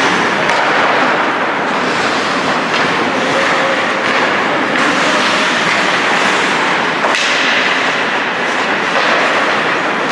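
Steady din of an ice hockey arena during play, with a few sharp clicks through it.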